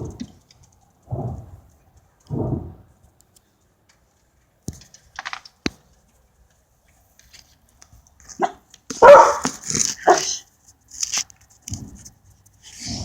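A dog barking in separate short bursts, two softer woofs near the start and a loud run of barks about nine seconds in, agitated by the rumbling noise in the sky. A few sharp clicks fall in between.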